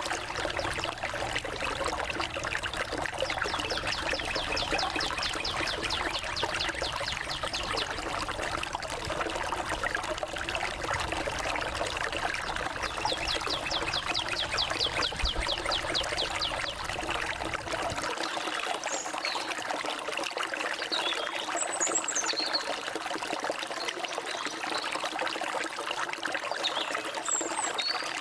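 A forest stream trickling and flowing steadily. Birds call over it: a fast trill twice in the first half, then short scattered chirps.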